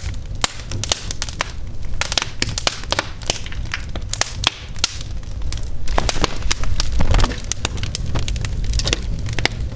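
Wood fire crackling in a brick fireplace: dense, irregular sharp pops and snaps over a steady low rumble.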